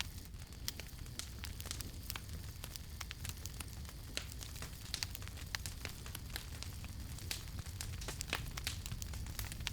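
Wood campfire burning with irregular sharp crackles and pops, several a second, over a low steady rumble of the flames.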